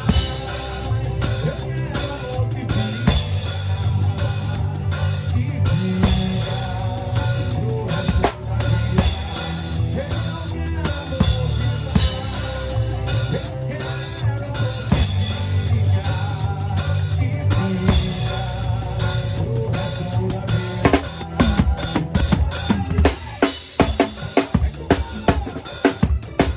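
Drum kit played along with an instrumental passage of a recorded forró song, kick, snare and rimshots over bass and keyboard backing. Near the end the backing thins and the drums play a run of sharp, rapid hits.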